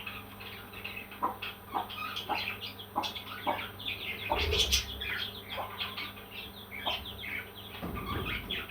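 Parrots chirping and chattering in a steady run of short, high calls, with a low bump about halfway through.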